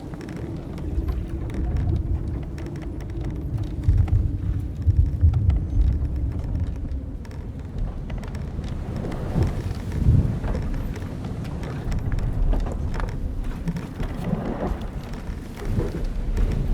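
Old wooden sailing ship at sea: a steady low rumble of wind and waves, heaviest about four to six seconds in, with several short creaks of timber and rope in the second half.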